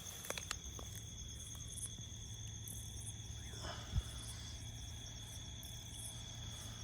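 Crickets trilling in one steady, unbroken high-pitched tone over a low steady hum, with a few faint clicks near the start and a single thump about four seconds in.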